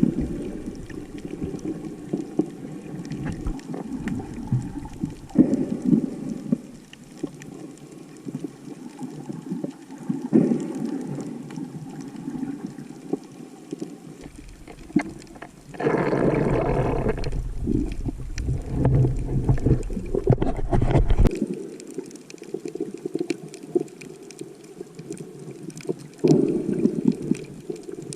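Muffled water sloshing and gurgling, heard through a waterproof camera housing while snorkeling, with irregular surges. Past the middle there is a louder, deeper rush of water lasting about five seconds.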